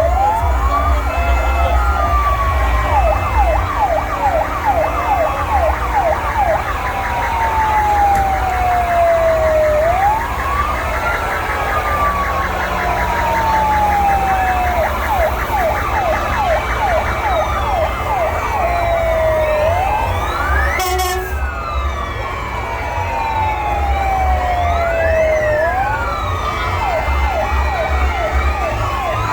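Several fire engine sirens sounding together. A wail rises quickly and falls slowly over about five seconds, alternating with runs of fast yelp sweeps, over a low rumble.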